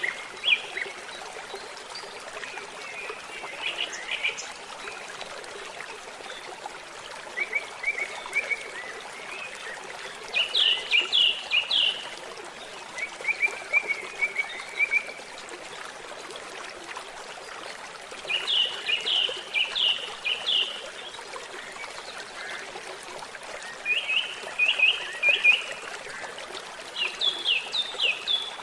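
Songbird singing short phrases of rapid, high chirping notes, repeated every few seconds, over the steady trickle of a stream.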